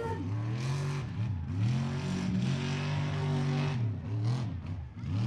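Super-class mud truck's engine revving, its pitch swinging down and back up several times as the throttle is blipped.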